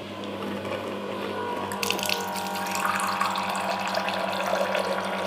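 LG refrigerator's through-the-door water dispenser running: a steady electric hum with cold water pouring out, the splashing growing louder about two seconds in.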